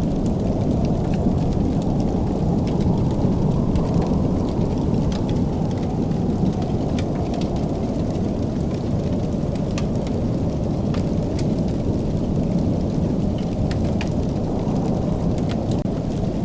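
Wood fire in a fireplace burning with a steady low rumble, broken by scattered sharp crackles and pops.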